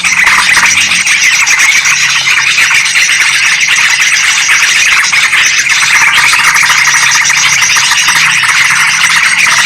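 Dense, unbroken chattering of many bulbuls: yellow-vented bulbuls (trucukan) and sooty-headed bulbuls (kutilang) calling busily over one another, as played for a bird lure.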